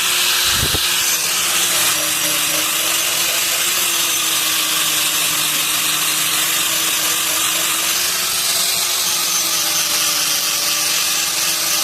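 A power tool or motor running steadily in a blacksmith's workshop, a continuous whirring hiss with a faint steady hum, with one brief low thump about half a second in.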